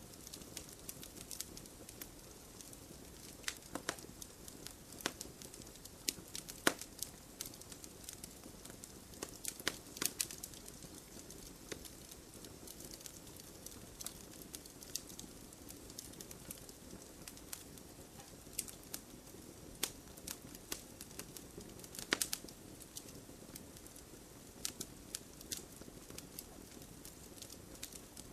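Wood fire burning in a fireplace: a soft steady hiss and flutter with irregular sharp crackles and pops, a few louder snaps among them.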